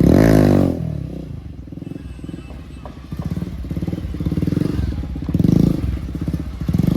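Motorcycle engine revved hard, its pitch dropping back over about a second, then running on with throttle swelling and easing a few times.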